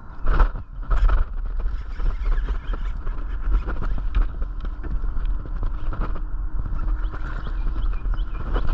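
Two sharp knocks, then rapid, steady clicking and rattling over a heavy low rumble: a fishing reel being cranked and the rod and boat handled while a large bass is fought in.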